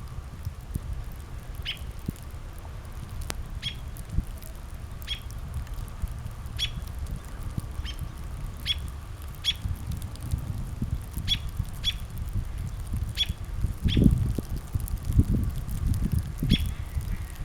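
A small bird repeating short, high call notes, roughly one a second, over wind rumbling on the microphone that gusts more strongly near the end.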